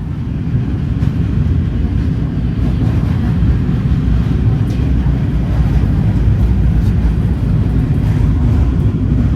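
A passenger train rolling along, heard from on board as a loud, steady low rumble that swells in right at the start.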